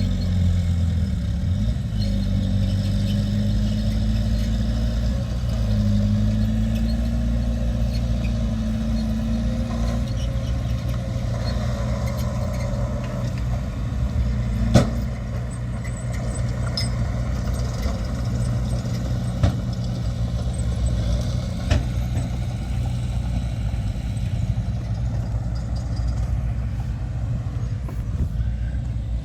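Heavy diesel earthmoving machinery running steadily, the engine note shifting up and down in pitch during the first part, with three short sharp knocks in the second half.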